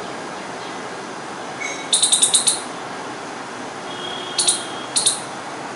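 Squirrel chirping: a rapid run of about six sharp, high-pitched chirps, then two more single chirps a little later, over a steady background hum.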